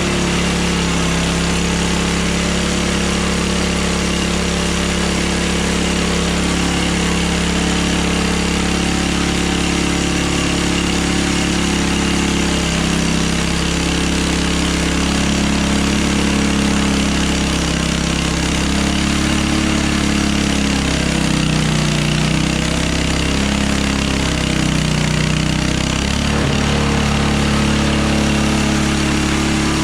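A Hudson Hunter sawmill's engine running steadily while the mill saws boards from a log. Its pitch wavers and dips through the middle stretch, then steadies again near the end.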